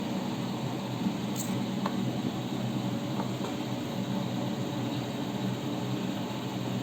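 Steady low mechanical hum of a running electric motor, with a faint hiss over it.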